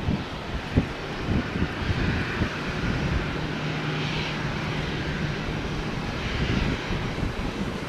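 Jet airliner engines running as the plane passes, a steady rumble and hiss that swells in the middle with a low hum held for a few seconds.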